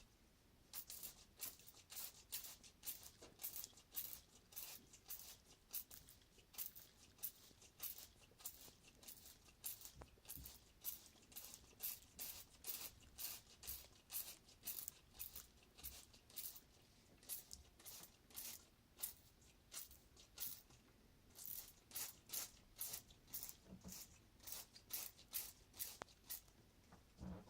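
Faint, scratchy strokes repeated about two to three times a second, with a couple of short breaks after the middle.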